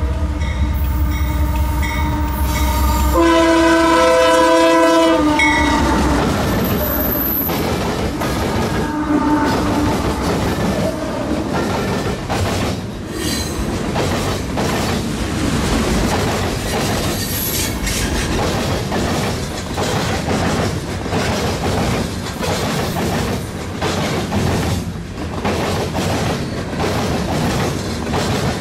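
A diesel freight locomotive's multi-note horn sounds, with a long chord blast about three seconds in. The freight train then rolls past, its wheels clicking steadily over the rail joints.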